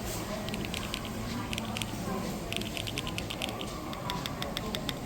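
Keys on a keyboard being typed in quick runs of sharp clicks, with short pauses between the runs.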